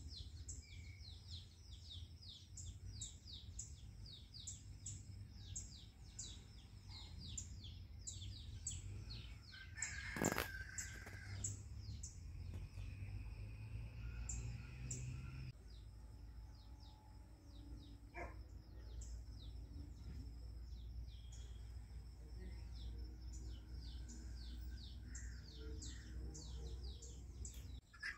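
Small birds chirping in a rapid, continuous series of short high falling notes, over a low steady rumble. A single sharp knock about ten seconds in is the loudest sound.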